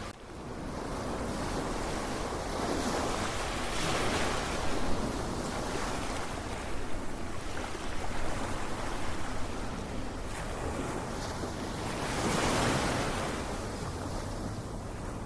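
Ocean surf: waves washing in as a steady rush of noise, swelling twice, about four seconds in and again about twelve seconds in.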